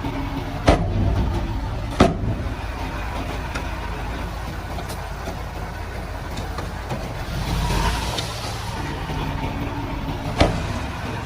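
Komatsu D31-P crawler bulldozer's diesel engine running steadily, swelling briefly near the middle, with three sharp knocks: one about a second in, one about two seconds in, and one near the end.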